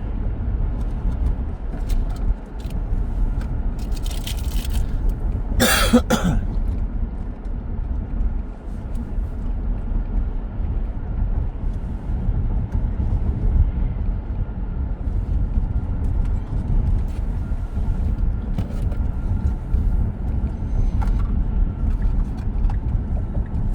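Road and tyre noise heard from inside the cabin of a 2023 Tesla Model X on the move: a steady low rumble with no engine note. A short loud noise breaks in about six seconds in.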